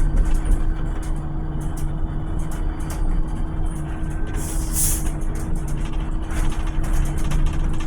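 Volvo BZL electric bus running with a steady hum and low rumble, light rattles throughout, and a short hiss of released air about four and a half seconds in.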